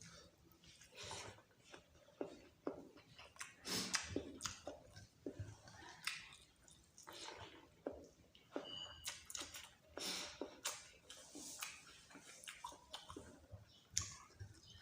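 Close-miked chewing and wet smacking of someone eating a meal of rice, lentils and meat curry, in irregular quick bursts.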